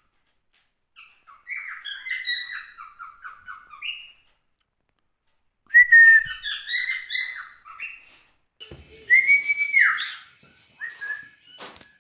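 Male white cockatiel singing: three phrases of warbled whistles and chirps, the third ending in a falling whistle, with a sharp click near the end.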